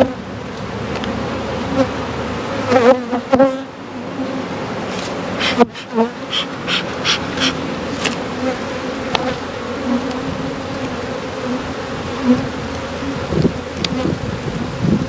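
A honeybee colony in an opened hive, buzzing steadily with a clear low hum. A few short knocks and scrapes sound over the buzz.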